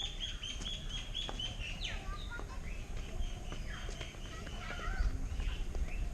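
Birds calling: a run of short, evenly repeated high chirps, with several calls that slide steeply downward in pitch.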